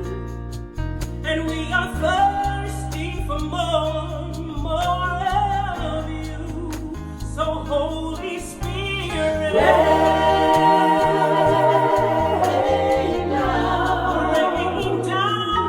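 Live gospel worship music: singers vocalising over electric bass and band, with wordless or unclear sung lines and a long held note from about ten seconds in.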